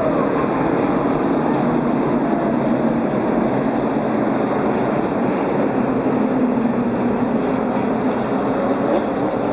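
NASCAR race trucks' V8 engines running at speed on the track, a steady loud drone whose pitch drifts slowly.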